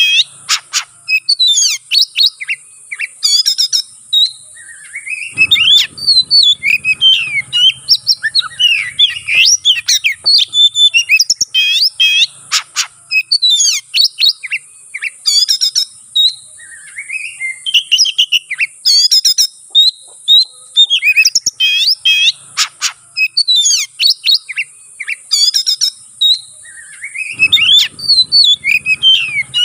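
Oriental magpie-robin (kacer) singing continuously in rapid, varied phrases of whistles, chirps and harsh notes, the fast mixed 'fighting' song full of mimicked calls that keepers use to provoke rival kacer.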